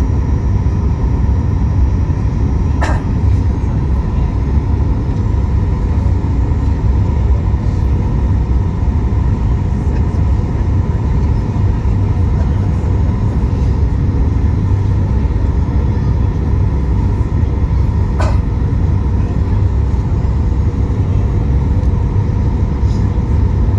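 Steady cabin noise inside a Boeing 737 MAX 8 airliner: a constant deep rumble of engines and airflow with a faint steady tone over it. Two short clicks break through, about 3 seconds in and again about 18 seconds in.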